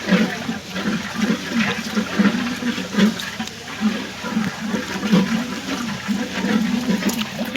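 Food in a pan bubbling and sizzling, a continuous watery rush with many small crackles and an uneven pulsing underneath.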